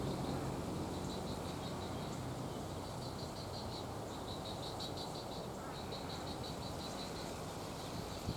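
Frogs calling at a pond: rapid ticking trills, high-pitched, repeated in short runs over a steady low rumble.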